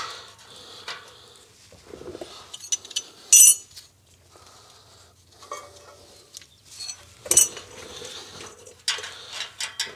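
Loose metal exhaust clamps and hardware clinking and rattling as they are picked up and handled, with a sharp ringing clink about three and a half seconds in and more clatter near the end.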